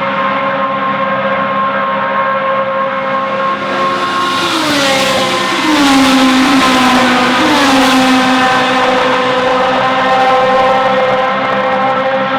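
Historic racing car engine running hard at high revs, its pitch dropping in a couple of steps about halfway through as it goes past, loudest at that point, then holding steady again.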